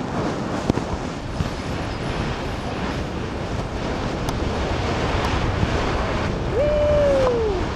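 Wind rushing over the microphone of a skier skiing fast down a steep line, with a few sharp ticks. Near the end a short held tone falls in pitch.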